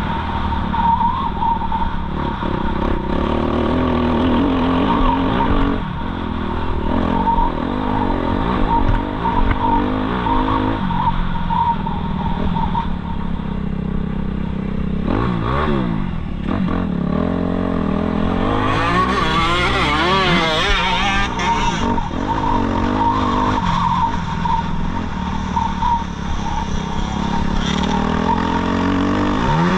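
Suzuki RM-Z250 single-cylinder four-stroke motocross bike engine being ridden hard, its revs rising and falling with throttle and gear changes, with a sharp rev about halfway through and a high climb and fall a little later.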